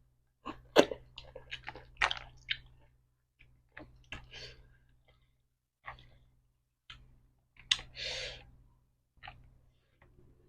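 Close-miked eating of spicy seafood papaya salad: chewing with wet mouth smacks and clicks, and two short hissing breaths, one about four seconds in and one near the end.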